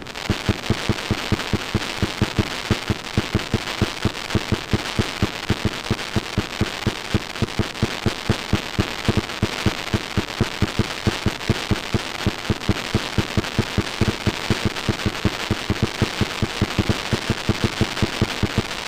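Fireworks going off in a dense, steady barrage of sharp bangs, several a second, over continuous crackling.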